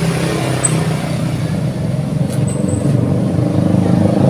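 A motor vehicle engine running steadily with a low hum, growing gradually louder.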